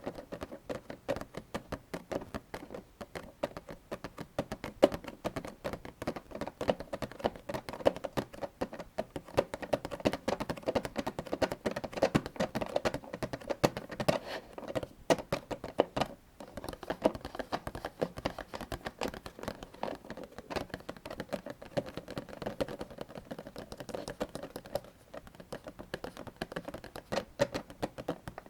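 Cartridges being pressed one by one into a 75-round AK-47 drum magazine: a dense run of small metallic clicks and scrapes, with a short pause about halfway through.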